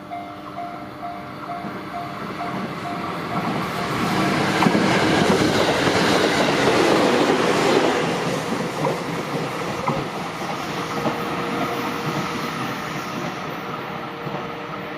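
Level-crossing warning bell ringing in rapid repeated pulses until a passing train's rumble and wheel clatter rise over it about three seconds in. The train's noise is loudest around five to eight seconds in and runs on as clattering on the rails.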